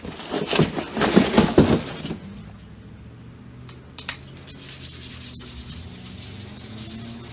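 Rubbing and scraping, loudest in the first two seconds, then two sharp clicks. A car's low engine hum builds faintly in the background, its pitch starting to rise near the end.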